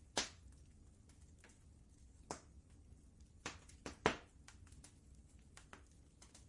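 Wood fire crackling: five sharp pops, the loudest just after four seconds in, among many faint ticks over a low steady rumble.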